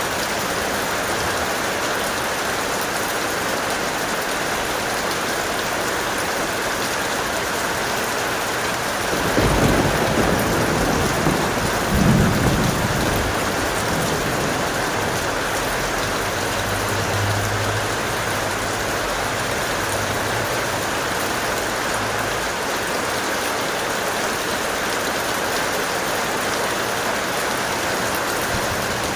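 Steady heavy rain falling, with a roll of thunder about a third of the way in that swells twice, then dies away into a low rumble.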